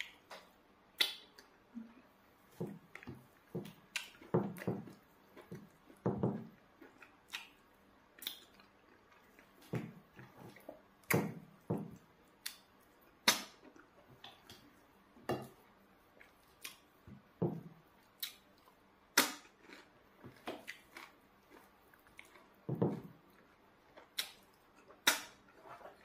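Close-up mouth sounds of eating eba with spinach soup by hand: scattered wet smacks and clicks of chewing and lips, irregular and about one every second or so, with quiet between.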